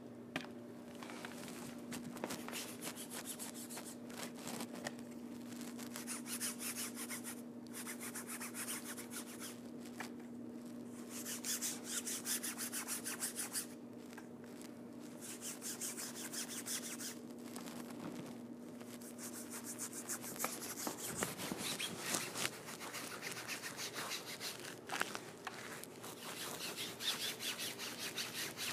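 A paintbrush scrubbing over a painted stage backdrop: fast, repeated scratchy strokes that come in spells. A steady low hum runs under it and stops about two-thirds of the way through.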